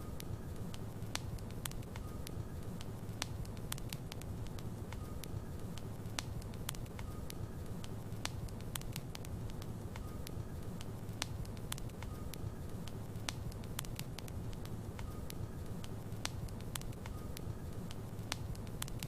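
Logs burning in a fireplace: a steady low rumble of the flames with frequent sharp crackles and pops from the wood.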